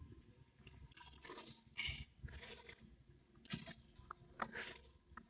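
A person chewing food, faint and close, with soft wet mouth clicks and smacks every second or so.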